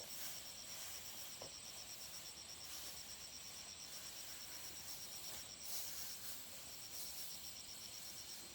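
Insects trilling steadily in a fast, even pulse of high chirps over a faint hiss.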